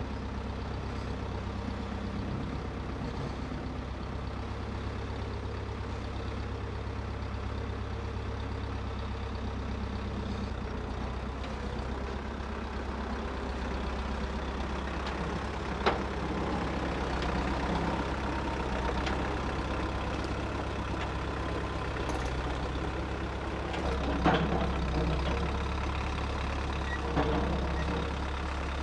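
An engine running steadily at a low pitch, its note shifting a couple of times, with a few sharp knocks or clanks past the middle and near the end.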